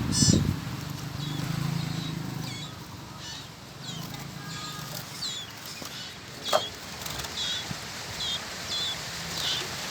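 Small bird chirping: a steady run of short, high, downward-sliding chirps about one every 0.7 seconds, with a low rumble in the first two seconds and one sharp click about two-thirds of the way through.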